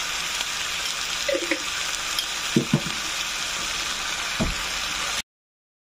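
Chicken pieces, potatoes and onions sizzling in coconut oil in a frying pan, a steady hiss, with a few short knocks of a wooden spoon against the pan as it is stirred. The sound cuts off suddenly about five seconds in.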